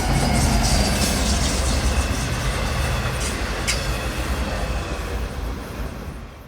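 Subway train running, a steady low rumble with wheel and track noise and two short sharp clicks a little past three seconds in, gradually fading out near the end.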